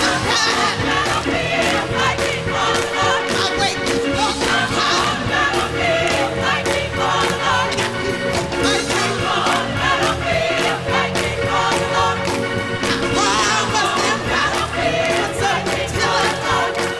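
Gospel choir singing with a live band in a large arena, with the crowd cheering along.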